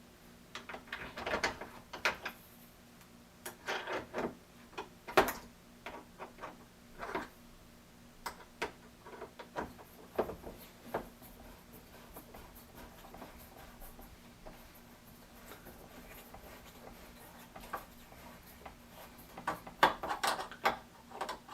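Clicks, scrapes and knocks of hard plastic parts being handled while a long screw is driven in to fasten a docking bay onto a coffee maker's housing. The sounds come in short clusters, with a quiet stretch in the middle and another burst near the end.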